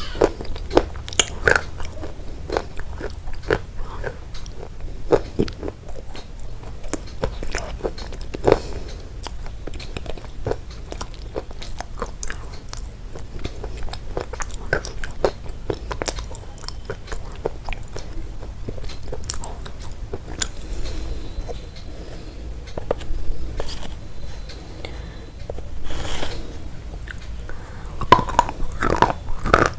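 Close-miked chewing of crunchy food: a run of sharp, crackly crunches as it is bitten and chewed, thickest in the first few seconds and again near the end, softer chewing in between.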